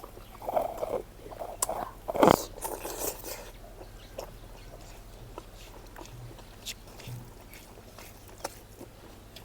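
A person chewing and biting food close to the microphone, with a louder sharp sound a little over two seconds in, then quieter scattered mouth clicks.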